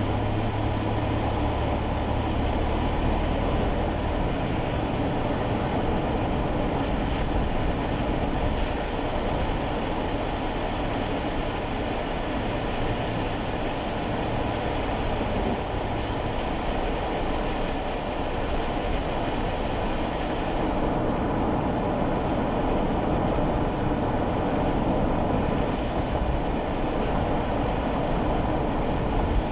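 Steady road and tyre noise on a wet road, heard inside a kei car's cabin, with a low engine hum that is strongest for the first few seconds.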